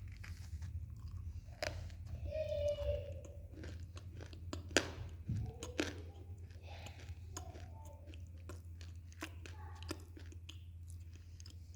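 Someone biting and chewing dried clay: scattered sharp, dry crunching clicks with chewing between them, over a steady low hum. The crunch is faint for clay, which the eater takes as the piece having almost no sound.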